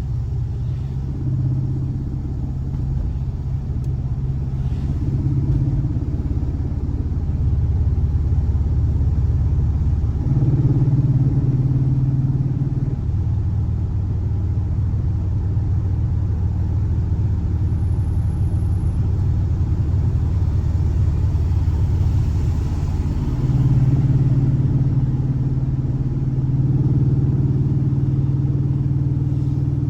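Air-cooled 1584cc flat-four boxer engine of a VW Fusca (Beetle) running with a low, steady drone. Its pitch steps up and down to new steady levels several times as the engine speed changes.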